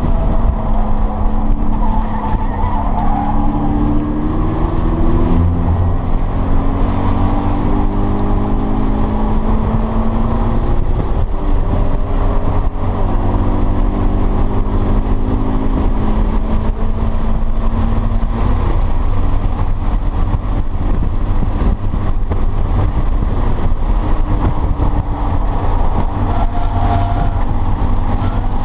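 2013 Subaru BRZ's 2.0-litre flat-four engine heard from inside the cabin under hard driving, its pitch climbing under acceleration and dropping twice at gear changes or braking, over heavy road and wind rumble. Brief tyre squeal in the corners near the start and near the end.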